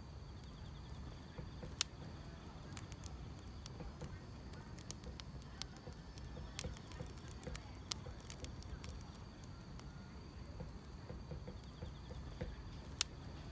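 Wood fire crackling: a low steady rumble with scattered sharp pops, the loudest about two seconds in, about eight seconds in and near the end. Grass insects trill faintly and steadily high above it.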